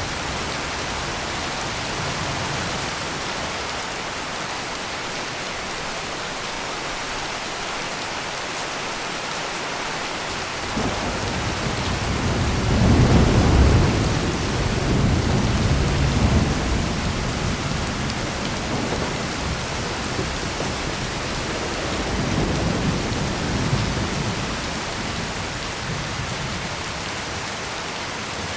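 Heavy rain pouring steadily, with a roll of thunder that breaks in about a third of the way through, peaks shortly after and rumbles on in several swells before fading near the end.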